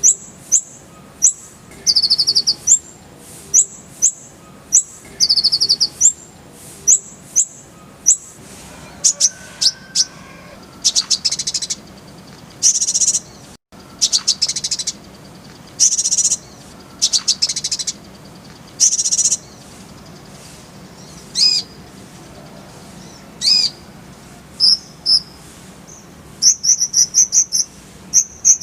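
Kolibri ninja, a sunbird, singing: bursts of very high, sharp notes and short rapid trills, with short pauses between the phrases. Partway through come several longer buzzy notes, and near the end a fast rattling trill.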